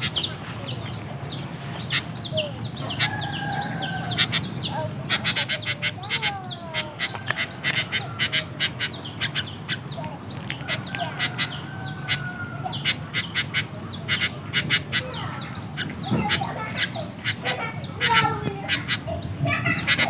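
Small birds chirping busily, many short, quick high calls overlapping throughout, with a few longer whistled notes.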